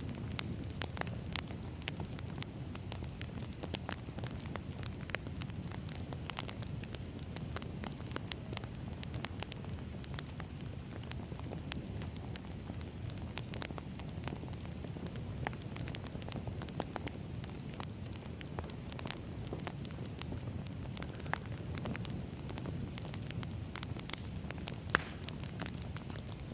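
Wood fire burning, a steady low rumble of flames with frequent sharp crackles and pops, one louder pop near the end.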